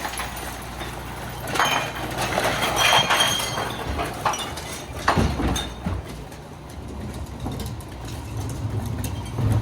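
Garbage truck engine running steadily at low revs, with clanking and clinking from the truck at work: a cluster of rattles and clinks in the first few seconds, a knock about five seconds in and another near the end.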